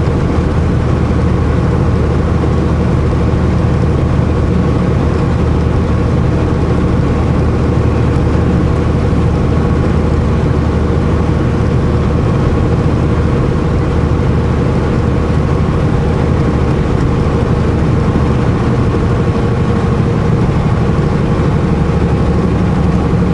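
Semi-truck's diesel engine running at a steady speed with road noise, heard from inside the cab while cruising.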